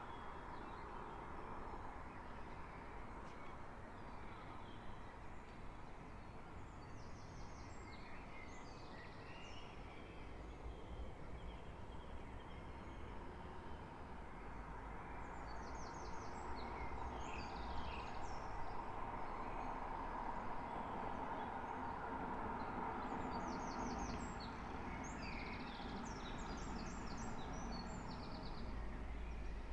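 Songbirds singing an early-morning chorus, quick repeated chirps and trills in several bursts, over a steady hum of distant traffic.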